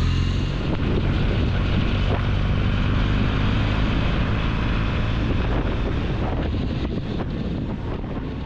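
Triumph motorcycle engine running at road speed, with wind rushing over the microphone, fading out near the end.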